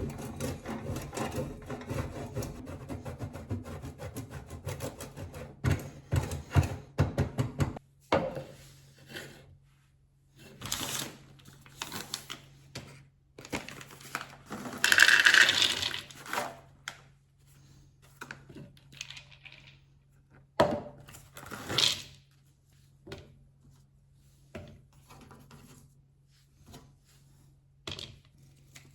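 Kitchen food-preparation sounds: dense rapid clicking and rattling for the first several seconds, then scattered knocks, clinks and handling noises, over a faint steady hum.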